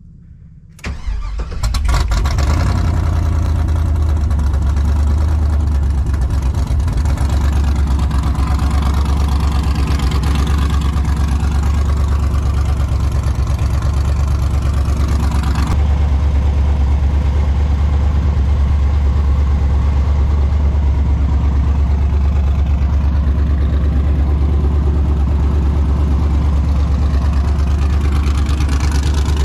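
Cammed 5.3-litre LM7 V8 on long-tube headers with no exhaust fitted, cranking and firing about a second in, then idling loud and steady.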